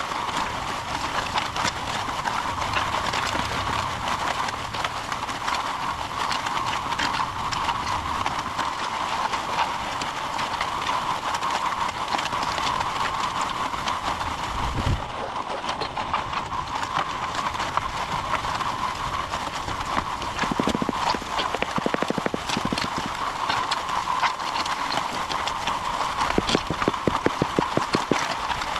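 MudMixer portable concrete mixer running, with a steady machine tone and a dense, fast rattling clatter. The clatter turns into more distinct, evenly spaced ticks near the end.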